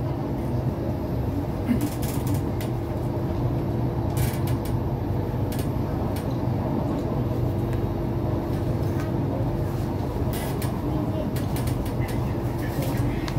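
Cabin noise of an SMRT C751B metro train running at speed: a steady low rumble of wheels on rail with a steady hum over it, and a few short sharp clicks.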